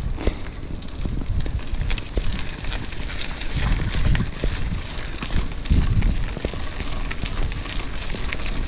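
Wind buffeting the microphone of a moving bike ride in uneven low gusts, with scattered crackles and clicks over it.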